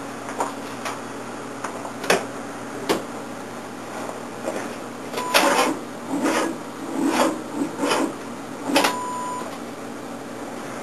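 Irregular mechanical clicks and clunks in a stored 1987 GMC S15 pickup as a start is tried on a weak battery, with two short beeps. There is no sound of the engine cranking or catching.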